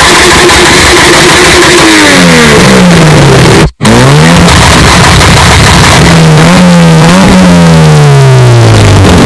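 4x4 SUV engine revving through heavily clipped, distorted audio. The revs hold, then fall away, and the sound cuts out abruptly for a split second just under four seconds in. The engine then comes back revving up, holds, and falls away again near the end.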